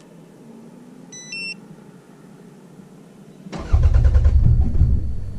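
A short two-note electronic beep, then about three and a half seconds in the Toyota Camry's starter cranks the cold engine in quick, even pulses. The engine does not catch: a failed cold start.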